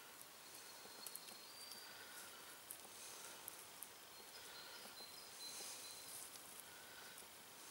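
Near silence in the open air: faint, short, high bird calls now and then, with a few small ticks and rustles.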